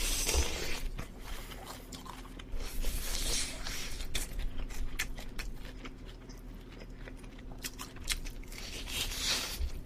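Close-miked biting and chewing of oven-baked chicken, with crisp crunches and wet mouth clicks throughout, busiest about three seconds in and again near the end.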